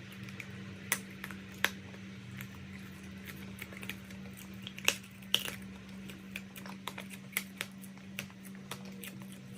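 Dry chalk crunching and crumbling, heard as scattered sharp cracks and clicks, the loudest a few snaps about a second in and around the middle, over a steady low hum.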